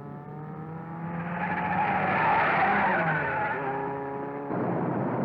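Cartoon race-car engine sound effect for the Mach 5, the engine running with small rises and falls in pitch, and a rushing noise that swells and fades in the middle.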